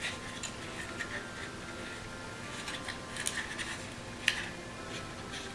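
Quiet handling of paper and mat board, with light rubbing and a few small clicks and taps; the sharpest click comes about four seconds in.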